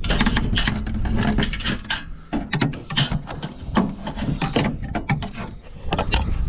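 Hands rummaging and scraping in a camper compartment, with dense rustling and many sharp knocks and clicks against wood as nest debris is pulled out.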